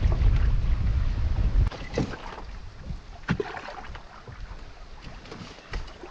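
Wind buffeting the microphone with a loud low rumble that cuts off suddenly under two seconds in. A few light knocks on a canoe follow, about two and three seconds in.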